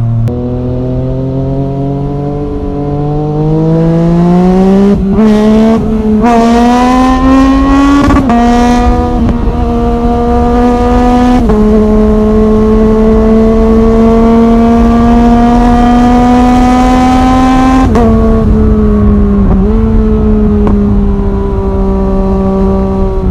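Yamaha MT-09's 847 cc three-cylinder engine through a full Arrow Thunder exhaust, pulling hard under acceleration with its note rising. It drops sharply in pitch at two quick upshifts, about a third of the way in and again about halfway. After a further drop it runs at fairly steady speed, with wind rumble underneath.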